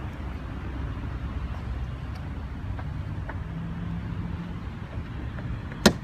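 Mercedes-Maybach S600's 6.0-litre twin-turbo V12 idling with a steady low rumble. A single sharp click near the end.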